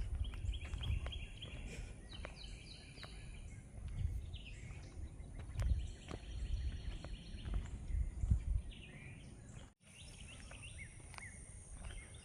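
Wild songbirds calling outdoors in short series of quick, high chirps, over a low, uneven rumble of outdoor noise. The sound drops out completely for a moment near the end.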